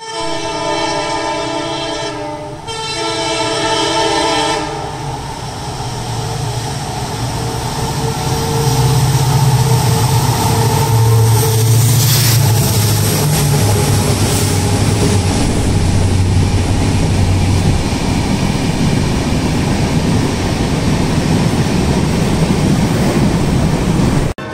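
Indian Railways train horn sounding two long blasts, then the train running with a loud, steady rumble of wheels on the rails that builds over several seconds and holds until it cuts off near the end.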